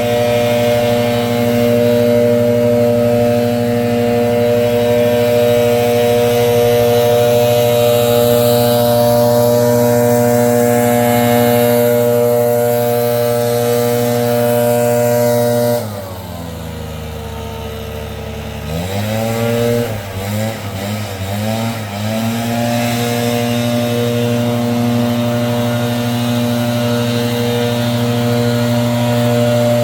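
Gas-powered leaf blower running at full throttle, dropping to idle about halfway through, blipped up several times, then held at full throttle again until it drops at the very end.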